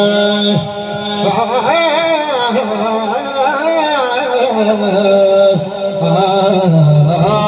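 A man singing a long, ornamented melodic line without clear words, the pitch waving and sliding over a held low note. It is the melodic opening of a devotional recitation.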